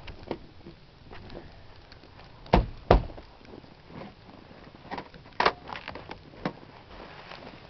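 Dull thumps and knocks against a car door that is frozen shut: two loud ones about half a second apart near the middle, then a few smaller knocks.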